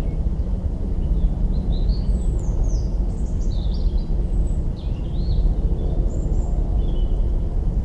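Campfire burning with a dense, low crackle of branches throughout, while a small bird sings a run of quick chirps and twitters from about a second and a half in until near the end.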